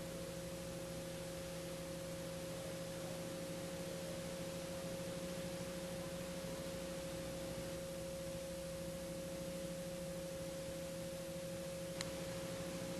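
A steady low hum of a few fixed tones over faint hiss, with a single sharp click about twelve seconds in.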